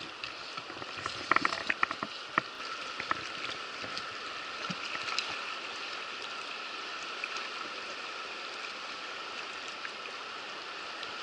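Steady rush of fast river water. About a second and a half in comes a short cluster of sharp clicks or knocks, the loudest sounds here.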